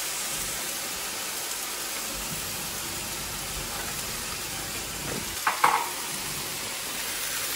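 Chicken and bacon pieces frying in a pan, a steady sizzle. A brief clatter comes about five and a half seconds in.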